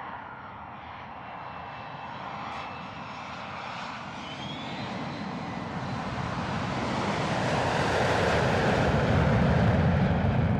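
Airplane engine noise, a dense roar that builds steadily louder and is loudest near the end, with a faint rising whine partway through.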